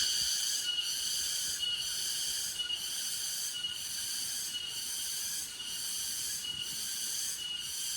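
Cicadas calling in a high, rhythmic drone that pulses at about one beat a second, with a short thin tone between the pulses.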